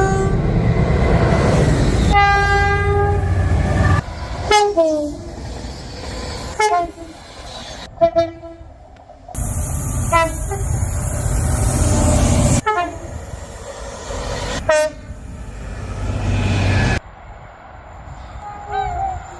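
Train horns and whistles in a series of short spliced clips: a held multi-note horn chord about two seconds in, then a string of short toots over train rumble, each clip cutting off abruptly.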